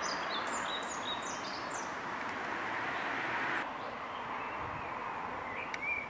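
Small songbirds chirping over a steady outdoor hiss: a quick run of short, high, falling notes in the first couple of seconds, then a few lower chirps near the end. The hiss drops suddenly a little past halfway.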